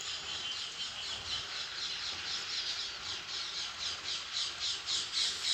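A bird calling in a fast, even series of short, high chirps, each falling in pitch, about four a second, growing louder over the second half.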